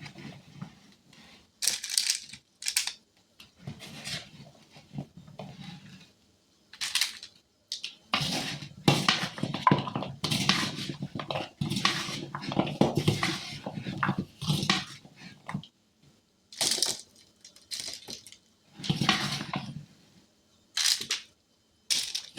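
Kitchen handling sounds: bursts of rustling, shaking and light clatter as sugar-dusted cranberries are worked and set out on a small baking pan, busiest in the middle stretch.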